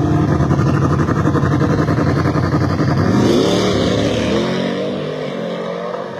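Two daily-driver street cars drag racing side by side, engines at full throttle. The revs climb sharply about three seconds in, then the sound fades as the cars pull away down the strip.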